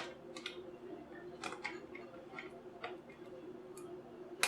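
Light, scattered clicks and taps of small plastic and metal parts being handled while taking apart a JBL Flip 2 Bluetooth speaker, with a sharper click at the start and another near the end, over a steady low hum.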